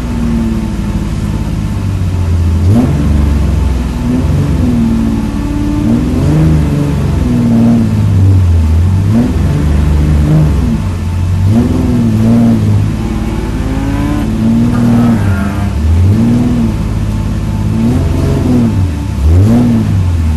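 Race car engine heard from inside the cabin, revving up and dropping back again and again as the driver shifts gears and lifts for corners.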